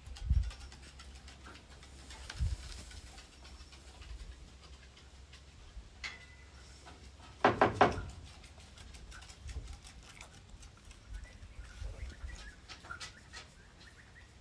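A chihuahua gives about three quick yaps in a row about halfway through. Before that there are two dull low thumps, and light ticks and clicks run through the rest.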